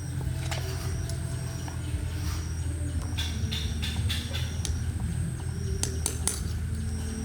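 Metal tools and engine parts clinking and knocking against each other in scattered, irregular strikes, over a steady low hum.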